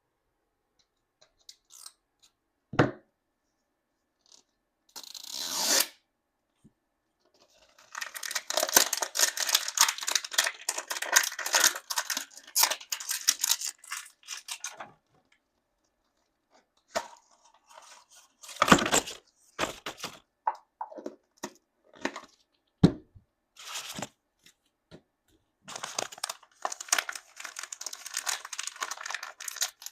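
Small plastic packaging being torn open and crinkled by hand in several long crackling spells. A few sharp clicks and knocks fall in between, about three seconds in and again near 19 and 23 seconds.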